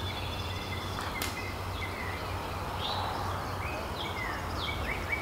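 Birds chirping: scattered short high chirps, then a quick run of repeated notes near the end, over a steady low hum. One faint click about a second in.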